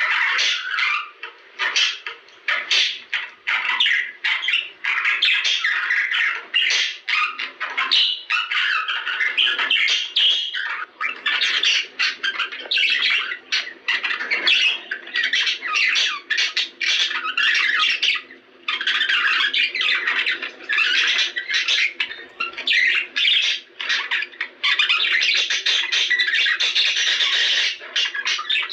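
Budgerigars chattering and squawking almost without pause, a dense warbling mix of calls: the kind of budgie chatter played to stimulate breeding.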